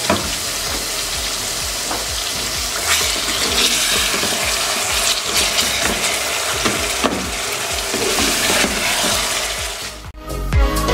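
Marinated chicken pieces and onions sizzling in hot oil in an aluminium pressure cooker as they are browned, stirred with a wooden spatula that now and then scrapes and knocks against the pot. Near the end the sizzling cuts off and background music begins.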